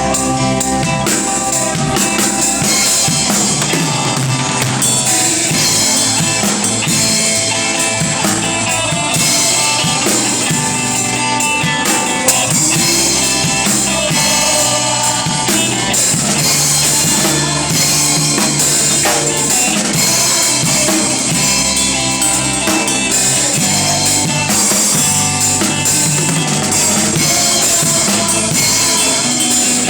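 Instrumental band music with a drum kit playing a steady beat: bass drum, snare and rimshots under sustained pitched instruments.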